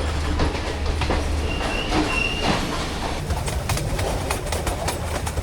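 Passenger train running along the rails: a steady low rumble with rail clicks, and a brief high-pitched tone about two seconds in.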